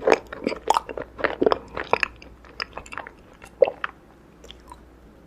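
Close-miked chewing of raw honeycomb, the wax comb crackling and squelching between the teeth. The crackles come thick for the first two seconds, then thin out, with one last louder one about three and a half seconds in.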